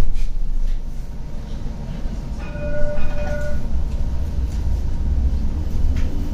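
CAF Urbos 100 tram with a steady low rumble. About two and a half seconds in, a short two-note signal tone sounds, and near the end a faint rising whine begins as the traction motors start to pull.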